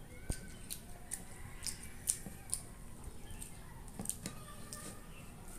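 A child eating grilled chicken: soft chewing with scattered small wet mouth clicks and smacks, and one dull thump about a third of a second in.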